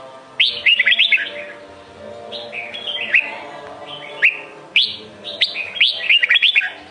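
Red-whiskered bulbul singing: bright, quick whistled phrases of several sharply gliding notes, in clusters a second or two apart, the longest run near the end. Steady lower tones lie underneath.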